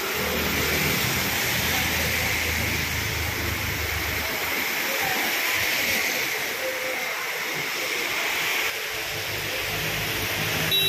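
Torrential rain pouring onto a flooded road, a dense, steady hiss of drops splashing on standing water. A low traffic rumble runs under it for the first few seconds and returns near the end.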